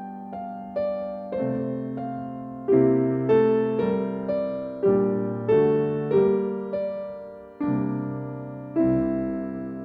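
Slow, gentle piano music: single notes and chords struck about every half second, each ringing and fading before the next.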